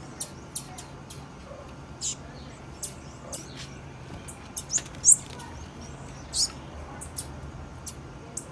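Female blue-black grassquit (tiziu) calling: short, sharp, high-pitched chips at an irregular pace, at times several a second, the loudest about five seconds in, over a faint steady low hum.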